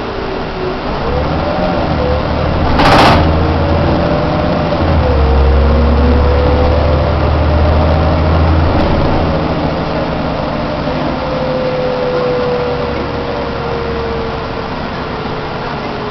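Heuliez GX 427 bus engine running under way, a steady low rumble with a faint whine that slowly rises and falls, the bus's normal running sound. A short hiss comes about 3 seconds in.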